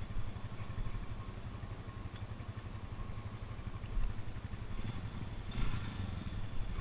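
ATV engine running steadily with a low hum, with a short rush of noise near the end.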